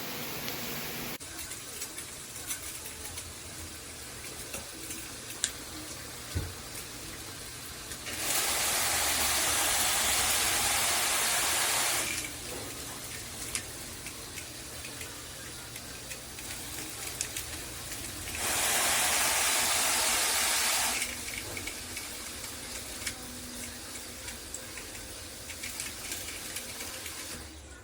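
Water spraying from a PWERAN filtered handheld shower head, a steady hiss that grows louder and brighter twice for a few seconds, about eight seconds in and again near eighteen seconds.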